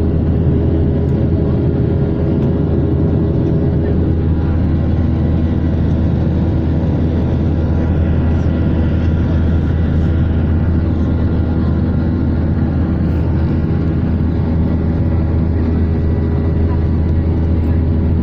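Airliner engines running steadily before take-off, a loud constant deep rumble with a steady hum on top that neither rises nor falls.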